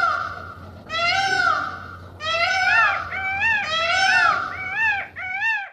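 Peacock calling: a series of loud, high wailing cries, each rising then falling in pitch. The first two calls are longer; from about two seconds in they come shorter and quicker, about two a second.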